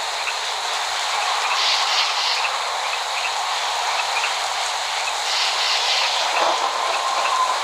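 Steady heavy rain falling, an even hiss with faint pattering drips and no thunder. A faint thin whistling tone comes in near the end.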